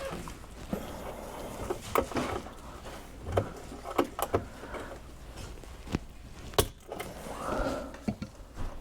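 Scattered sharp clicks and knocks of tools and parts being handled during work on a garbage disposal's wiring, with a short scraping rub near the end.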